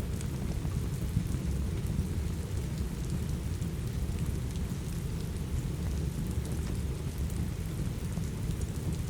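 Steady rain with a deep, even low rumble beneath it, sprinkled with many small sharp ticks and crackles, like rain and a crackling wood fire mixed together.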